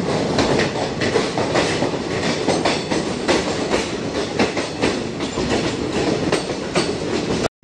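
Moving passenger train heard from the open coach window: steady rumble and wind rush with the wheels clattering over the rails in many sharp clicks.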